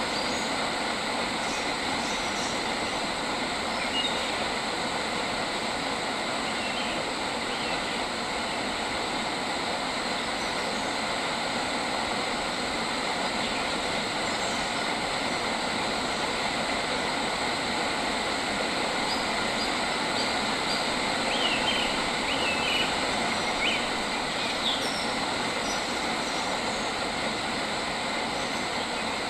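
Steady, dense outdoor ambience with a few brief bird chirps, most of them in a short cluster about three-quarters of the way through.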